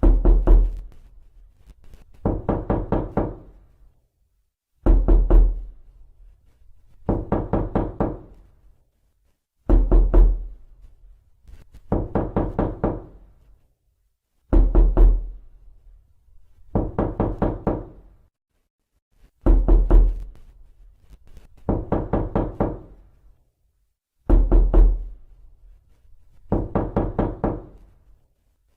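Knocking on a door, over and over, in groups of five or six quick raps about every two and a half seconds. Every other group begins with a heavier blow.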